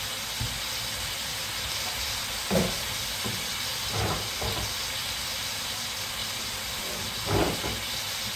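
Cabbage sizzling in a hot soup pot, a steady hiss, with a few short knocks about two and a half, four and seven and a half seconds in.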